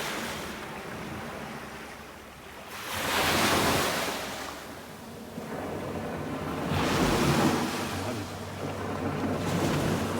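Boat-wake waves washing up a sandy beach, surging every three to four seconds, with a faint low hum under them in the second half.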